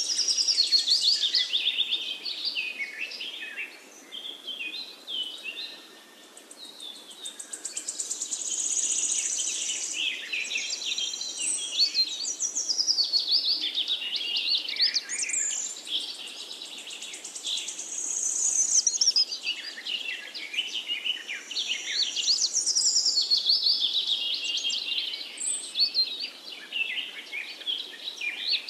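Birds chirping and singing: many quick, high calls and trills overlapping without a break.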